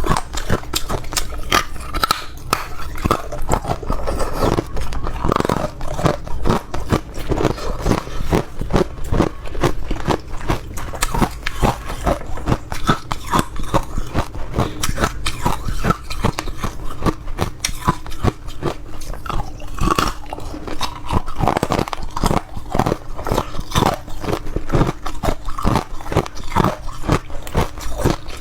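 A person biting and chewing ice: a continuous run of sharp, crackly crunches, many per second.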